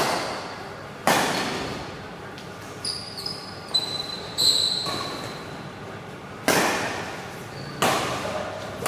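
Badminton rally: sharp cracks of rackets striking the shuttlecock, each echoing in a hall, about five hits with a longer gap in the middle. During the gap, court shoes squeak on the floor several times.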